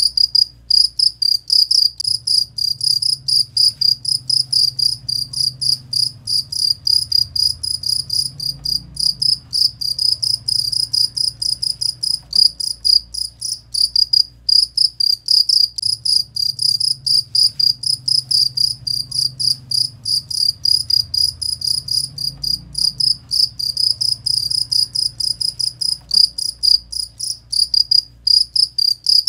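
Cricket (jangkrik) chirping steadily, a high, rapid, evenly pulsed trill of several chirps a second.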